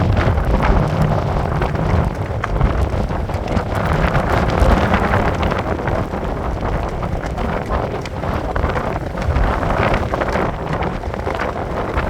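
Stormy wind gusting and buffeting the microphone, a loud, low rumbling rush that swells and eases every second or two.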